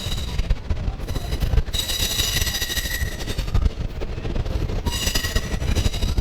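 Passenger train running on the rails with a steady low rumble, and steel wheels squealing in high, steady tones that come in twice, for about a second each time.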